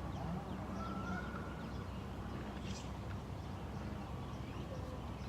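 Outdoor lakeside ambience: a steady low background rumble with a few faint, short bird calls and whistles.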